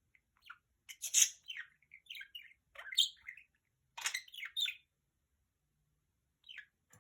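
Budgerigar chirping and chattering in short, quick clusters, then pausing before a single short chirp near the end.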